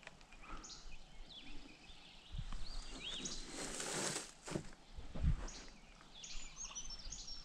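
Birds calling and singing repeatedly, with short rising and falling whistled notes. About halfway through comes a brief rushing noise, then a low thump, the loudest sound.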